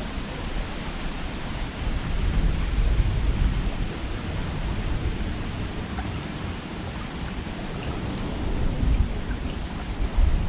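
Steady rushing noise with an unsteady low rumble, typical of wind buffeting a small action-camera microphone.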